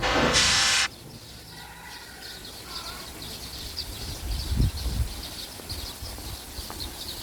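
Intro music cuts off about a second in. Then small birds chirp rapidly and repeatedly over quiet outdoor ambience, with a couple of dull low thumps near the middle.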